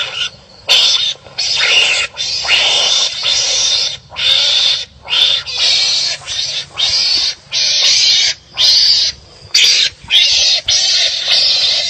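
Wild animals barking and calling harshly at each other: a quick run of about a dozen rough, rasping calls. Each call lasts from a fraction of a second to over a second, with short gaps between them.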